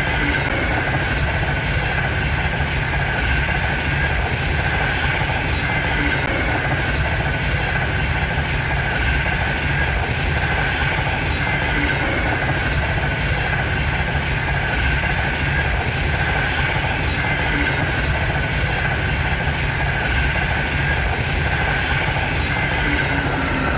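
Frecciarossa high-speed train running at speed, a steady unbroken rumble and rushing noise with a faint high hum.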